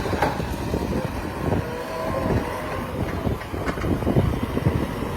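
Heavy diesel vehicle engine running steadily, with short knocks and clanks scattered through it.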